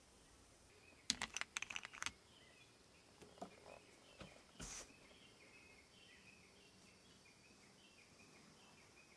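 A quick run of sharp clicks and knocks about a second in, then a few softer knocks and a brief rustle, over faint repeated chirping calls in a near-silent background.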